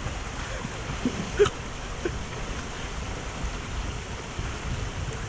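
Steady rush of flowing stream water with wind buffeting the microphone, and a single short knock about a second and a half in.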